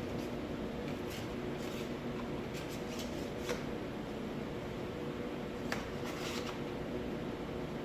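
Light clicks and rustles from chair parts and packaging being handled during office chair assembly, over a steady low hum.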